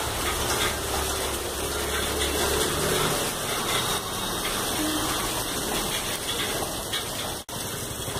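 Heavy monsoon rain pouring down, a steady dense hiss.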